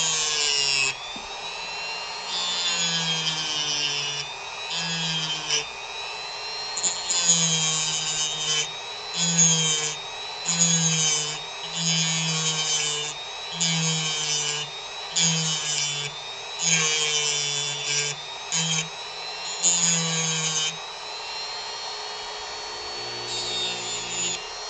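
Dremel rotary tool carving wood in short repeated passes, roughly one a second, each pass louder with the motor's whine bending in pitch as the bit bites. For the last few seconds it runs on evenly without cutting.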